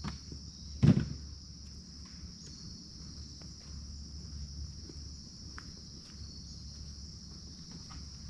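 Steady high-pitched chirring of insects, with one loud thump about a second in and a few faint clicks.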